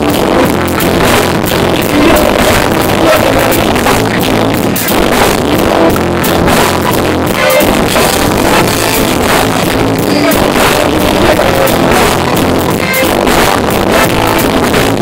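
Live rock band playing loudly, with electric guitar and drum kit, recorded with distortion.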